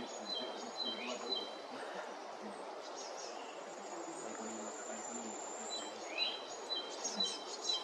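Outdoor nature ambience: a steady high-pitched insect trill that stops about six seconds in, with a small songbird repeating a quick two-note phrase early on and again near the end, over a soft background hiss.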